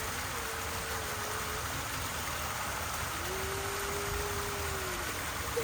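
Steady rushing noise, with two faint drawn-out low tones, one short and one longer, partway through.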